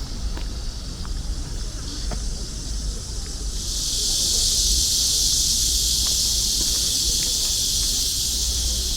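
Cicadas buzzing in a steady, high, hissing chorus that swells much louder about three and a half seconds in.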